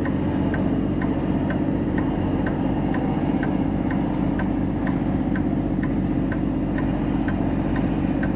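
Truck diesel engine running steadily at low revs, heard from the cab, with a light regular tick about twice a second.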